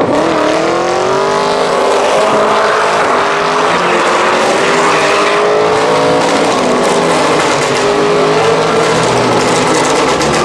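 A car engine held at high revs, its pitch climbing over the first second or so and then steady, over a hiss of tyre noise, as a car drifts or does donuts.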